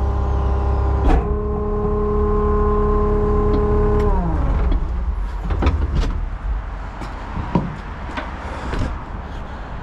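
Skid steer running at steady high revs with a whine, a knock about a second in; about four seconds in the pitch falls as it throttles down to a quieter idle, with scattered clunks and clicks from the grapple forks and machine.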